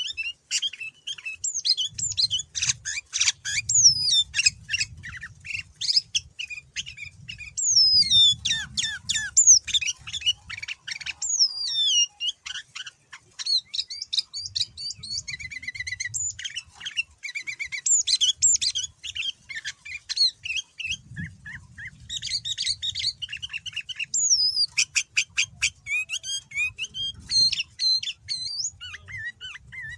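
Male sooty-headed bulbul (kutilang) singing a long, varied song without pause. Quick whistled notes slide downward, mixed with rapid chattering trills.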